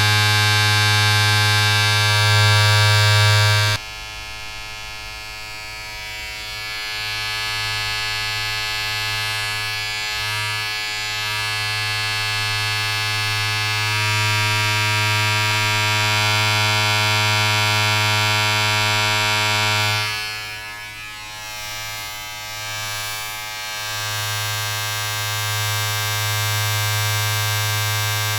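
A small electric appliance buzzing steadily with a low hum and a rich stack of overtones. It drops in level and changes tone about four seconds in, then dips and wavers for a few seconds past the middle before steadying again.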